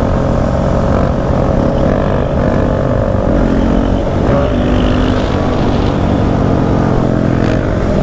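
Dirt bike engine running while riding on the road, its note shifting slightly around the middle, with wind rumbling on the microphone.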